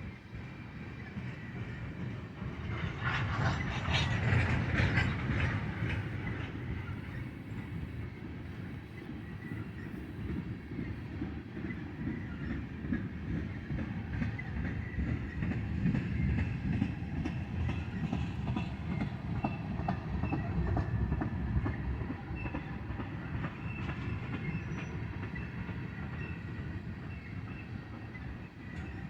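Freight cars of a long BNSF stack and empty ethanol tank train rolling past, wheels clacking over rail joints with a steady rumble. The loudest stretch comes about three to six seconds in, with a cluster of clacks and some high wheel squeal.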